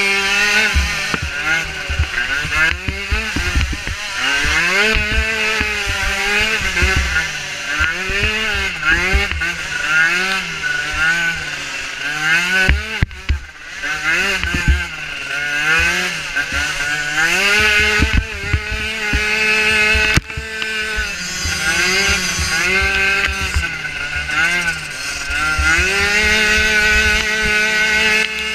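Micro ATV engine racing: its pitch rises and falls over and over as the throttle is worked on and off, with a low rumble and thuds underneath.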